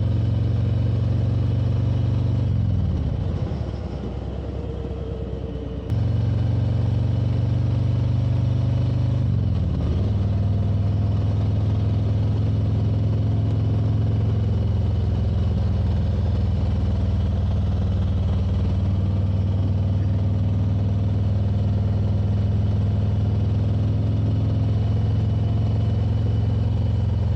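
Motorcycle engine running at a steady road speed. The engine note eases off about three seconds in and comes back abruptly near six seconds, then dips briefly near ten seconds before settling back to a steady pull.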